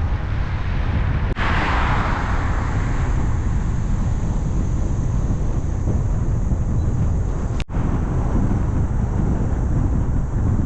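Wind rumbling over the microphone of a moving bicycle, heaviest in the low end. About a second and a half in, a brief louder rush fades away. Near eight seconds in there is a sudden short break with a click.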